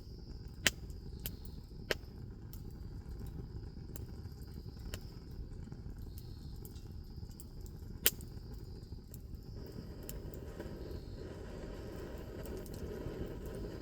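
Wood bonfire crackling, with sharp pops: the loudest come a little under a second in, at about two seconds and at about eight seconds, with fainter ones between. A steady high insect trill runs behind it, and a wider rushing noise swells in the last few seconds.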